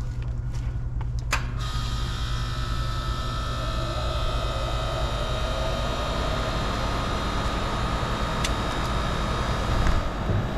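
York LX heat pump starting up: over a low hum, a sharp click about a second in, then the unit's Bristol compressor comes on and runs with a steady rush and a fixed whine.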